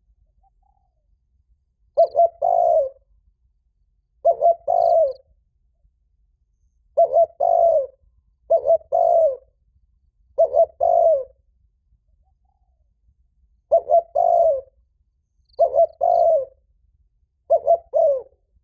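A spotted dove cooing its loud, resonant challenge call: eight phrases, each two short notes followed by a longer, falling coo, repeated every two seconds or so.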